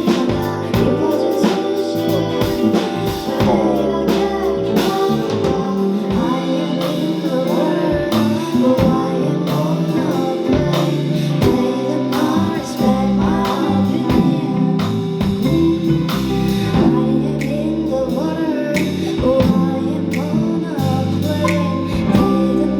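A live band performance of a pop ballad, a singer's voice carrying the melody over guitar, sustained keyboard or string tones and a steady drum beat.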